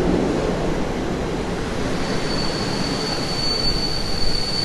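Locomotive-hauled passenger coaches rolling slowly past at a platform, with a steady rumble of wheels on rail; about halfway through a single high steady brake squeal sets in as the train slows to a stop.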